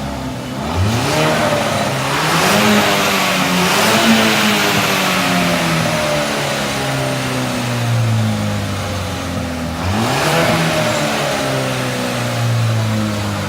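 2006 Volkswagen Passat engine revving through an exhaust with the muffler removed. The revs climb quickly about a second in, then fall back slowly over several seconds. A second quick rev comes about ten seconds in.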